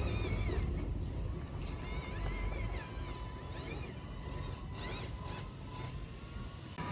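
Small electric motors of an RC construction model whining, their pitch rising and falling over and over as the machine moves, over a low rumble.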